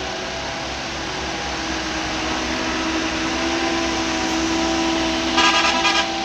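Heavy diesel quarry machinery running steadily, its engine note swelling a little after the first second or two. Near the end comes a short, loud, pulsing tonal burst.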